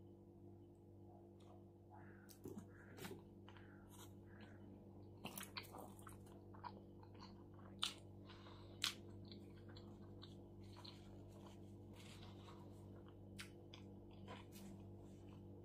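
Close-up eating sounds of a person chewing a bite of shawarma: soft wet mouth clicks and smacks, busiest in the first half, with two sharper smacks about eight and nine seconds in. A faint steady hum lies underneath.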